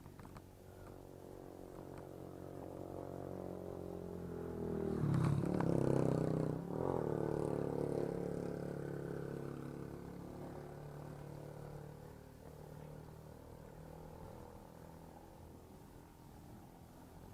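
A motor vehicle's engine approaches, passes close about five to seven seconds in, and fades slowly into the distance.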